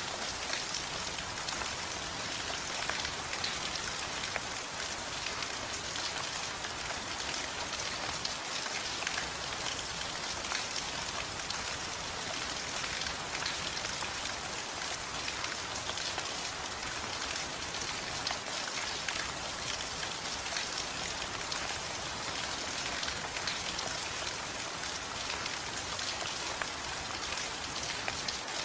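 Heavy, steady rain pattering on a surface, a dense even hiss of many drops.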